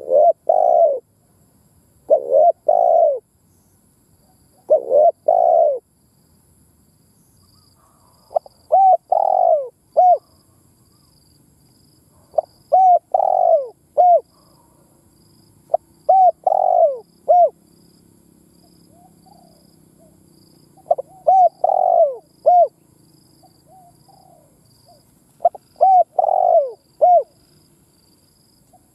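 Spotted dove cooing: loud phrases of two to four short coos, repeated every three to four seconds.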